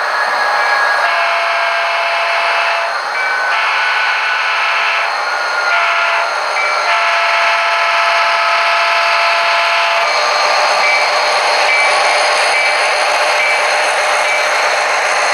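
Sound-equipped model locomotive sounding its horn in the grade-crossing pattern: two long blasts, one short, one long. After that a faint tone repeats about every second over a steady running hiss.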